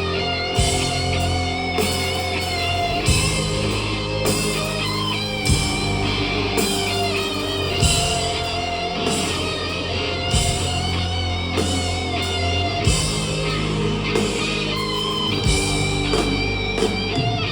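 Rock band playing an instrumental passage: sustained electric guitar lines over held bass notes, with a heavy drum hit about once a second.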